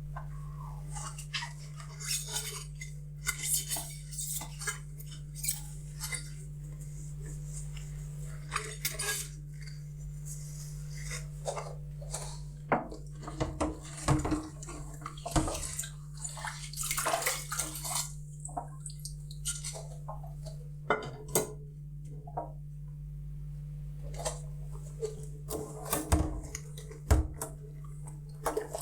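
Dishes being washed by hand: plates and cutlery clinking and knocking against each other at irregular intervals, with short runs of water splashing. A steady low hum runs underneath, and there is a sharper knock near the end.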